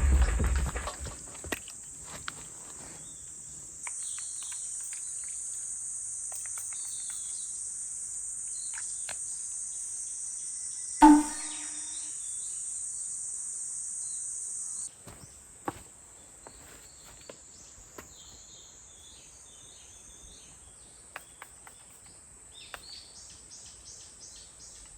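Insect chorus in a forest: a steady high-pitched drone that gets louder about four seconds in and quieter again around fifteen seconds, with a few faint chirps over it. A brief louder sound stands out about eleven seconds in.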